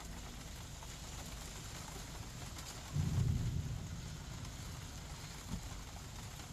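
Steady rain-and-wind noise of a severe thunderstorm, with a brief low rumble about three seconds in.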